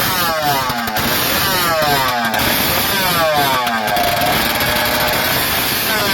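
Motorcycle engine revved in repeated blips, about one a second, each rev falling back in pitch; loud throughout, with the revs held a little longer around the middle.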